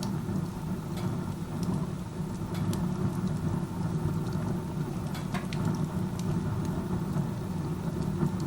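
Wood stove burning with its door open like a fireplace: the chimney draft pulls air through the firebox with a steady, low rushing noise. Scattered sharp crackles from the burning wood sound over it. The draw is strong enough that, in the uploader's view, the stove burns inefficiently this way.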